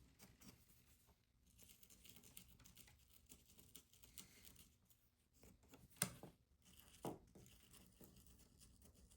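Faint handling noises from small hobby painting work: light scratching and taps, with two sharper knocks about six and seven seconds in.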